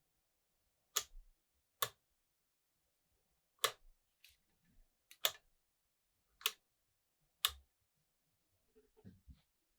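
Six sharp, loud metallic clicks spaced about a second apart, with a few softer knocks between them and some faint handling noise near the end.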